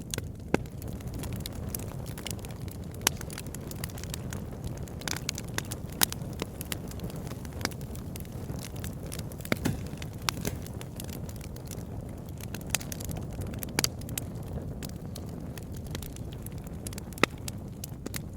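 Campfire burning, with wood crackling in irregular sharp pops and snaps over a low steady rumble.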